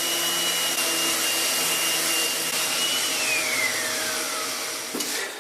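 Vacuum cleaner running with a steady whine, switched off about three seconds in, its motor whining down in pitch until it stops.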